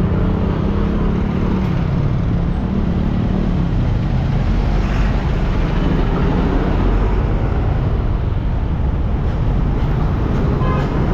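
City traffic heard from a moving motorbike: a steady, loud mix of engine running and road noise with low wind rumble.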